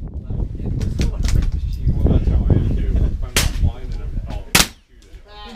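.22 rimfire rifle shots: two sharp cracks about a second apart near the end, with fainter clicks earlier, over a steady low rumble.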